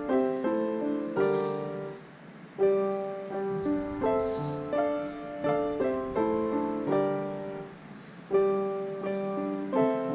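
Background music: a solo piano playing a slow, gentle melody over chords.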